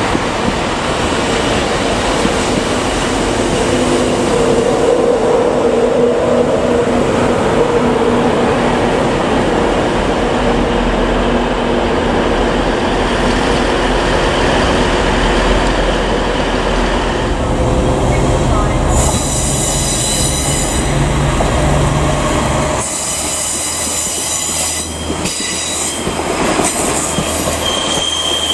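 Passenger train moving slowly through the station: a steady rumble of engine and wheels, then high-pitched wheel squeal sets in about two-thirds of the way through, with several squealing tones at once near the end.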